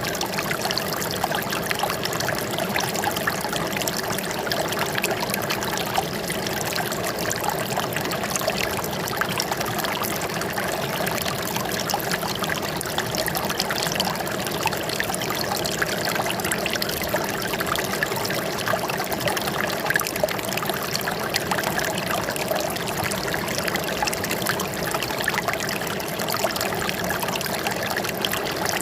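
Flowing water trickling and splashing steadily, like a small stream running over stones.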